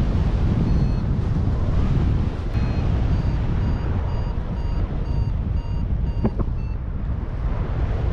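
Wind rushing over the microphone in flight, with a paragliding variometer giving a quick series of short high beeps from about three seconds in until nearly seven, the tone it sounds while the glider is climbing.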